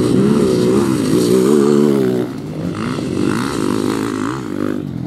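Motocross motorcycle engines revving on the track, their pitch rising and falling with the throttle. The sound is loudest at first and drops off about two seconds in as the bikes pull away, then carries on at a lower level.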